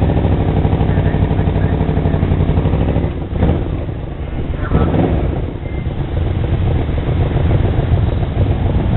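Touring motorcycle running at road speed, a steady engine drone mixed with wind and road noise, with two brief louder surges about three and five seconds in.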